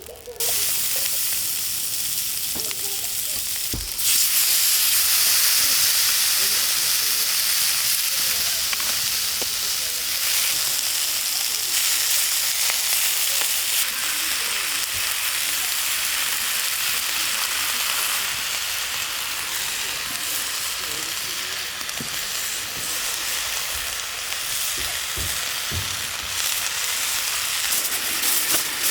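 Steak sizzling as it fries in a hot pan: a steady hiss with small crackles, which gets louder about four seconds in.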